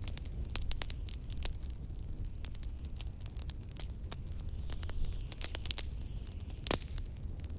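Wood fire in a fireplace crackling, with irregular sharp pops and one louder snap near the end, over a steady low rumble of wind.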